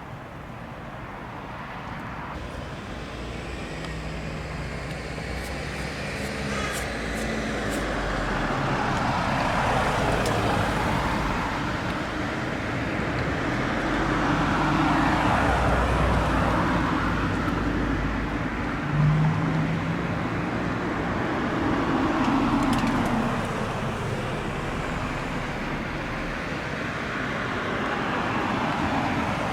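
Road traffic passing: engine and tyre noise swelling and fading several times as vehicles go by.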